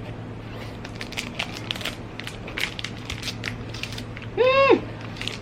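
Crackling crunches as a crispy chocolate-coated snack bar is bitten and chewed, with a short hummed 'mm' that rises and falls about four and a half seconds in.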